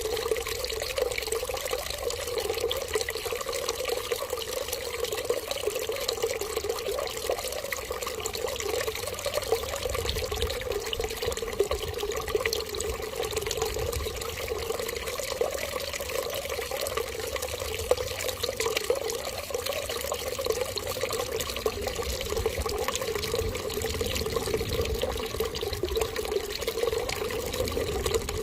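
Water running in a steady, unbroken stream, an even trickle that does not change.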